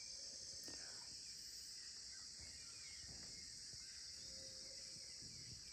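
Faint, steady high-pitched chorus of rainforest insects.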